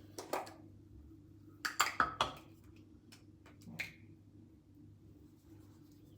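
Small skincare bottles and jars clinking and clicking as they are handled and set down: one click near the start, a quick run of three or four clinks about two seconds in, and another near four seconds.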